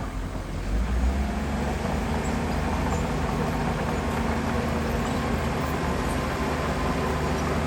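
Heavy diesel earthmoving machine running steadily, a low engine rumble with a brief swell about a second in.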